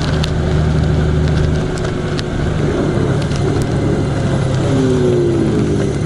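A vehicle driving on a road, its engine running with a steady low note that shifts about one and a half seconds in; a few falling tones are heard near the end.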